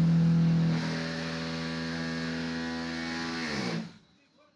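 Vibration platform of a QD6-15 concrete block machine running under its vibration motors: a loud, steady hum that eases somewhat after the first second, then drops in pitch and stops about four seconds in. This is one vibration-compaction cycle that shapes a batch of blocks.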